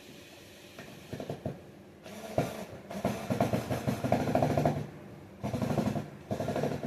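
Small power drill driving a screw into the recliner, running in bursts of a second or two with short pauses between. There is a sharp knock about two seconds in.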